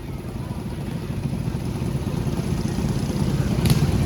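Small-engine mini bikes running, a rough mechanical rumble that grows steadily louder, with a few sharp crackles near the end.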